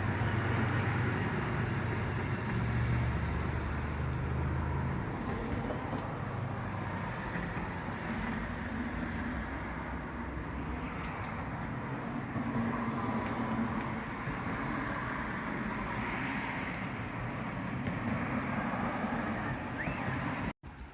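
Steady outdoor noise of road traffic, with a vehicle engine's low hum for the first few seconds. The sound cuts out briefly near the end.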